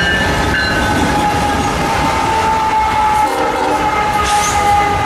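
Train horn sounding a long, steady chord of several notes over the loud rumble of a moving train.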